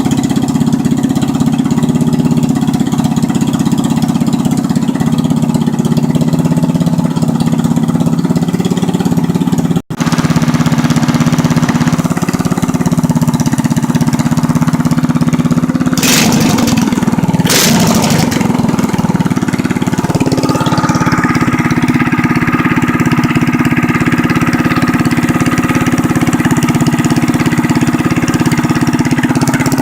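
Predator 212 Hemi single-cylinder four-stroke engine, fitted with an aftermarket exhaust, a pod air filter and a rejetted carburettor, running steadily. There is a momentary cut about ten seconds in and two short rushing noises around sixteen and seventeen seconds; after about twenty seconds the engine settles at a higher speed.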